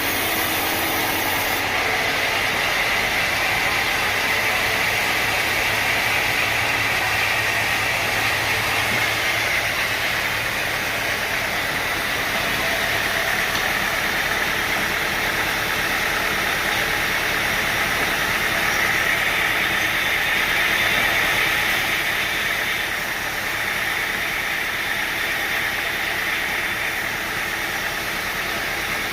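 Sawmill machinery running steadily, a continuous engine-driven noise with no breaks.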